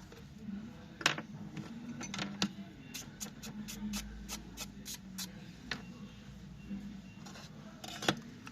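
Sharp clicks and taps of hands and tools working on a laptop, with an even run of about ten quick clicks in the middle, about four a second, over a faint steady hum.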